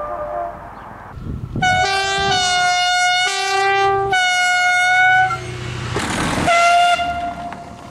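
Locomotive air horn sounded in a run of four blasts of a few seconds or less, switching between two tones like a little tune. Near the end comes a brief burst of rushing noise with one more short horn note.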